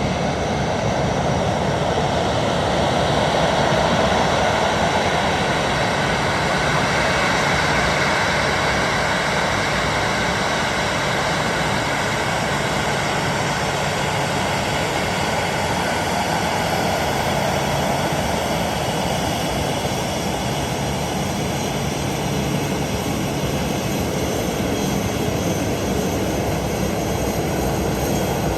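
Boeing 737-800's CFM56-7B jet engines running steadily, a continuous rush with a faint whine, swelling slightly a few seconds in.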